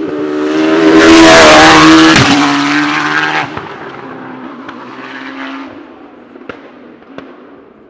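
Racing car engine at full throttle passing close by, swelling to a loud peak, dropping in pitch as it goes past, then fading away up the hill. Two short sharp cracks near the end.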